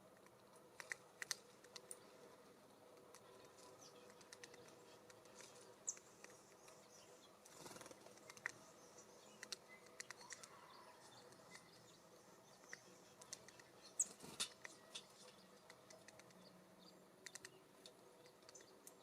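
Birds at a seed feeder: irregular sharp taps and clicks of beaks pecking and feet on the feeder, with a few short high chirps and a brief rustle near the middle.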